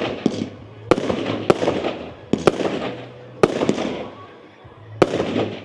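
Fireworks going off in quick succession: a string of sharp bangs, each followed by a crackling tail, with a short lull before a last bang near the end.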